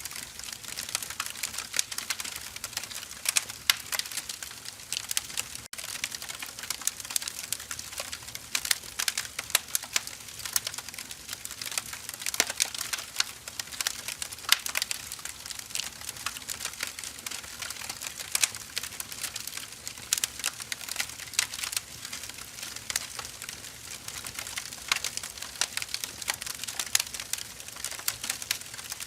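Split firewood burning, crackling continuously with a dense, irregular run of sharp snaps and pops.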